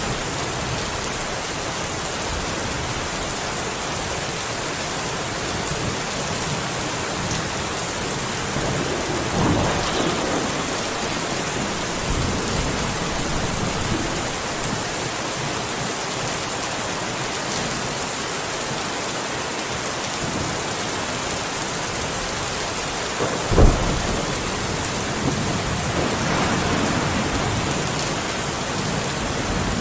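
Steady rain falling, with thunder: a rumble about a third of the way in, a sharp close crack about two-thirds in, then a longer rumble after it.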